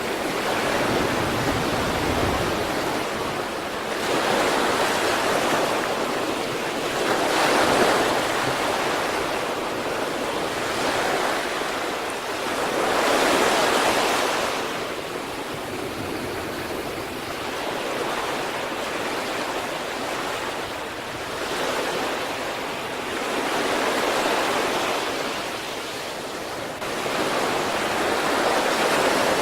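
East Sea waves breaking: a steady wash of surf that swells with each breaking wave every few seconds and eases back between them.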